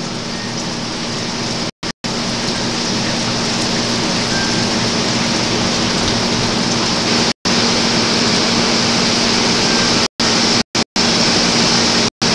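Heavy hurricane rain and wind: an even, loud hiss that grows slowly louder, with a faint steady low hum underneath. The sound cuts to silence for an instant several times.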